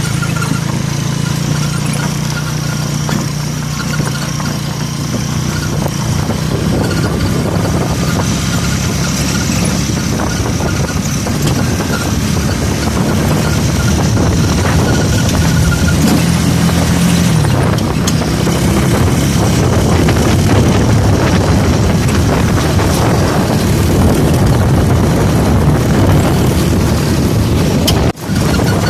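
Vehicle engine running steadily at road speed, with a constant rush of wind and road noise. The sound briefly cuts out near the end.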